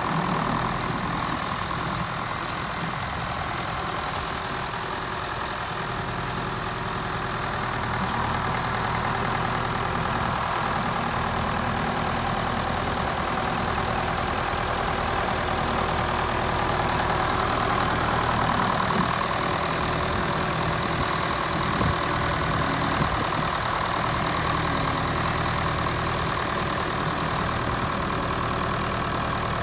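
Farm tractor engine running steadily at a low idle, getting a little louder about eight seconds in.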